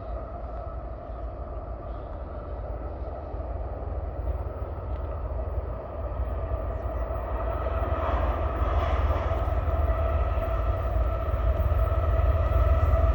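Train approaching: a deep rumble with a steady whine over it, growing steadily louder.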